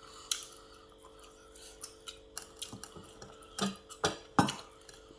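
Scattered clicks and knocks of eating utensils against dishes, a handful of sharp strikes with the loudest a few seconds in, over a faint steady hum.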